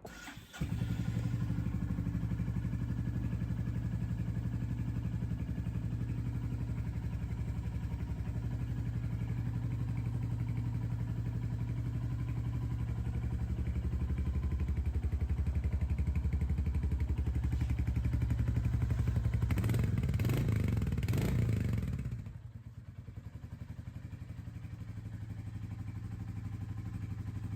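Royal Enfield Hunter 350's single-cylinder engine starting about half a second in and idling steadily, with a few throttle blips between roughly 17 and 22 seconds, then running more quietly for the last few seconds.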